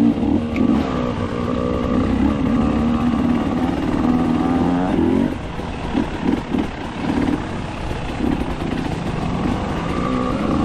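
Enduro dirt bike engine running at a steady throttle, then blipped on and off several times about halfway through before settling back to a steady pull.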